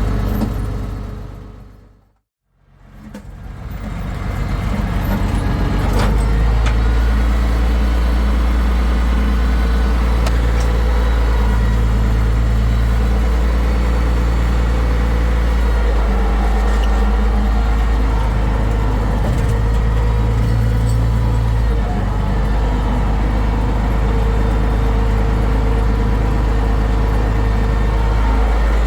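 International Harvester 1066 tractor's six-cylinder turbo diesel engine running steadily. The sound fades out to silence about two seconds in, then fades back up and runs on.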